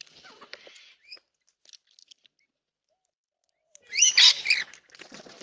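Wild Australian birds at a backyard bird bath calling: faint scattered chirps at first, then after a quiet spell a loud burst of several calls about four seconds in, each sweeping quickly up and down in pitch.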